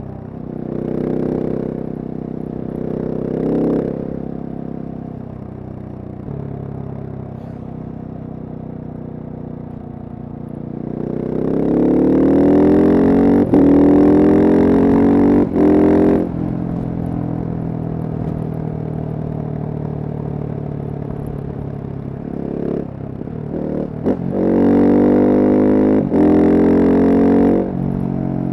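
Single-cylinder Husqvarna supermoto motorcycle engine under way, running at a steady lower speed, then pulling hard twice with rising pitch, about eleven seconds in and again near twenty-four seconds. The hard pulls are broken by a few brief dips in the sound.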